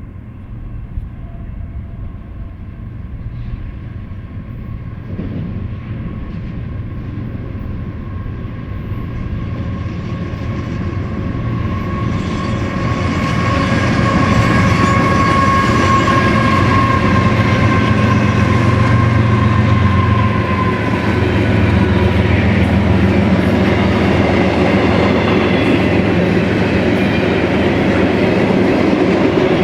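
BNSF freight train with diesel locomotives running by. It grows louder for the first dozen seconds or so and then holds loud as the cars roll past, the wheels clacking over the rail joints. A steady high whine runs above it and slips a little lower about two-thirds of the way through.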